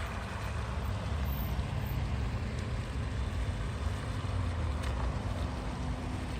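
A vehicle running: a steady low engine and road rumble with some wind noise.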